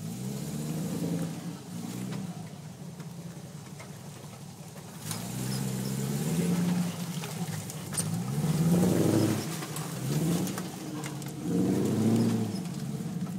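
Truck engine revving up and easing off about five times, its pitch climbing and dropping with each rev, with a rush of noise growing in about five seconds in.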